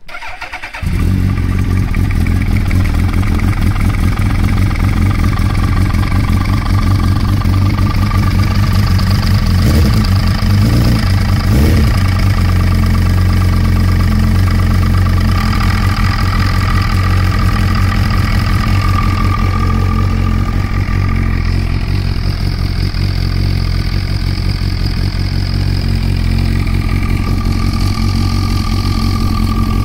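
Suzuki Hayabusa inline-four motorcycle engine catching about a second in, then idling steadily with a few brief irregularities around the middle. This is the suspect noise that the owner puts down to the clutch.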